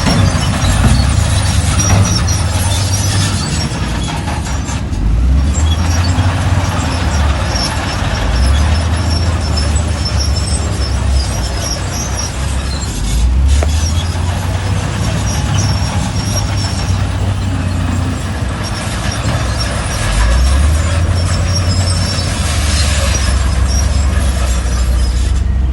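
Heavy diesel earthmoving machinery working, its engine note rising and falling several times under changing load, with high metallic squeaks and clatter over the top.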